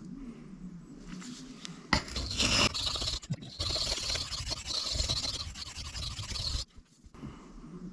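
Steel knife blade scraped in quick back-and-forth strokes across a diamond sharpening stone while reprofiling the edge toward an apex. The gritty scraping starts about two seconds in and stops abruptly near seven seconds.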